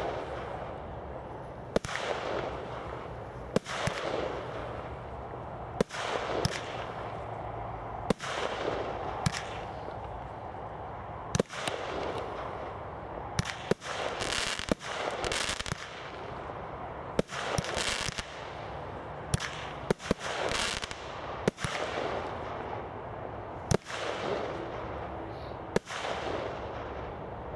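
Brothers Pyrotechnics Tivoli 16-shot barrage cake firing: sharp bangs every second or two as shots launch and break, some coming in quick pairs, with a noisy wash between them.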